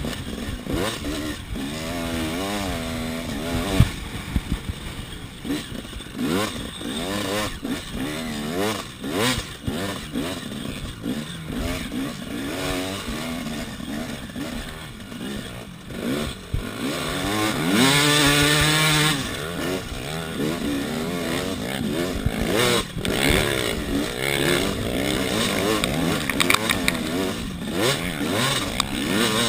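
KTM 300 EXC two-stroke single-cylinder engine revving up and down over and over as the bike is ridden hard around a sandy motocross track, heard close up from a chest-mounted camera. Its loudest, highest-revving run comes about two-thirds of the way through, with scattered knocks from the bike over the ruts.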